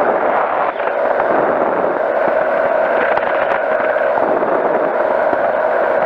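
Powered parachute's engine and propeller running steadily in flight, heard from on board as an unchanging drone.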